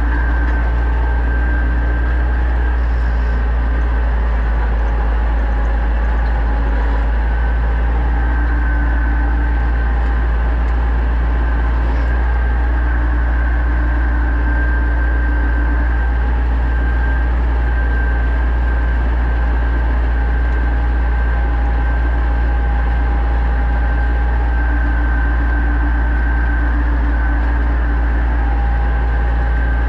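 Pronar 1025A tractor's diesel engine running steadily at constant revs, a deep drone with faint steady whines above it.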